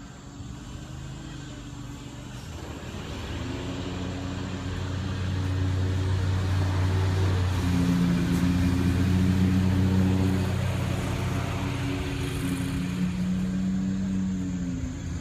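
A motor vehicle engine running with a steady low hum that grows louder over the first two thirds and eases slightly near the end, its pitch stepping to a new level twice along the way.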